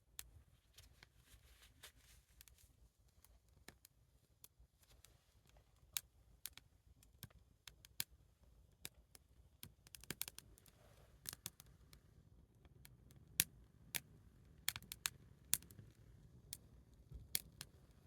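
Small wood fire crackling, with faint irregular pops and snaps, some a little louder than the rest.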